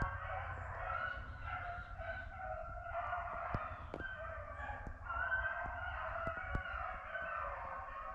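Pack of rabbit hounds baying together in the distance, a constant overlapping chorus as the whole pack runs one rabbit's track.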